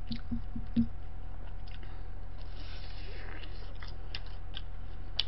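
Close-up chewing and biting of a crispy deep-fried dumpling: a quick run of soft chewing thumps in the first second, then scattered crunchy clicks, over a steady low hum.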